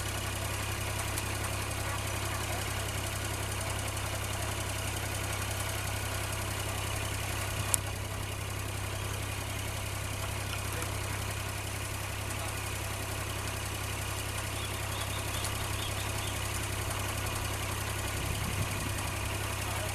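Kubota DC-35 combine harvester's diesel engine running steadily at idle, with one sharp click about eight seconds in.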